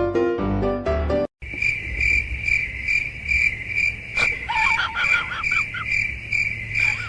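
Keyboard-like music notes that cut off about a second in. Then a steady, high, even chirping, about two chirps a second, over a low hum, with a short warbling call in the middle.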